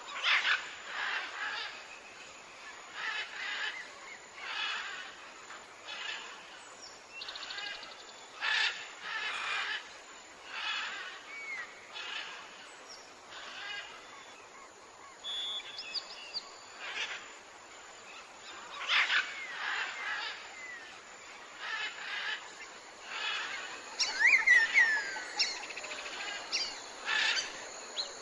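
Birds calling: a short call repeating about once a second, with quick whistled chirps that slide in pitch. The chirps are loudest a few seconds before the end.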